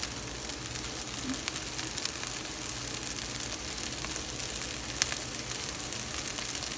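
Ground beef and rice frying in a stainless steel skillet: a steady sizzling hiss with scattered fine crackles, and one sharper pop about five seconds in.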